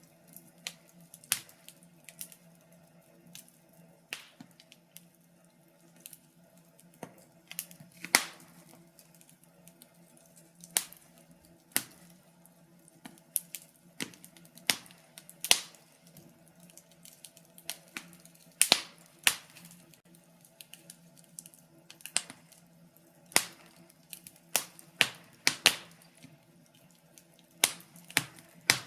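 Wood fire crackling, with irregular sharp pops and snaps a second or more apart over a faint steady low hum.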